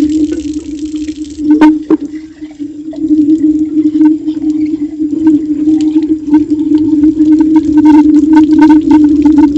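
Water running from a kitchen tap during hand dish-washing, over a steady low hum. A couple of sharp clinks of utensils come about two seconds in.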